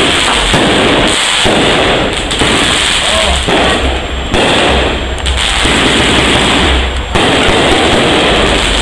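Aerial fireworks going off in a continuous loud barrage of crackling bursts.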